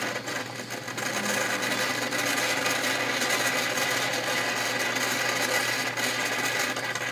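Bellman CX-25 steam-pressure espresso machine sputtering and hissing as steam and coffee are forced out through the brew spout during extraction. It is a steady hiss that starts and cuts off abruptly.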